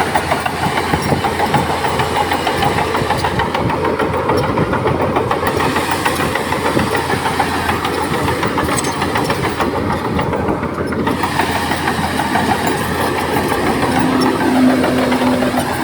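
Crawler bulldozer at work: its diesel engine running steadily under load, with the steel tracks clanking continuously. A short low steady tone sounds about fourteen seconds in.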